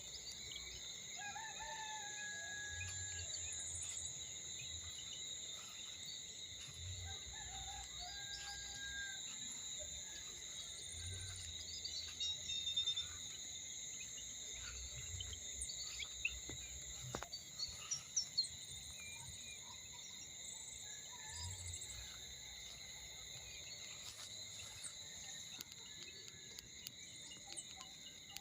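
Evening insect chorus, a steady high-pitched shrill of several held tones. A rooster crows about a second in, other birds call now and then, and a few sharp clicks come in the middle.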